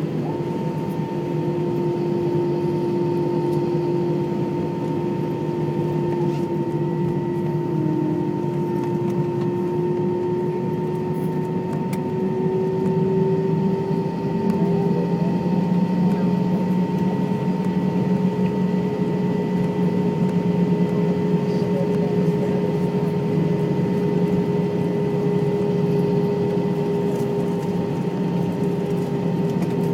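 Jet airliner's engines running at idle, heard inside the passenger cabin after landing: a steady hum with several held tones, some drifting slightly higher in pitch partway through.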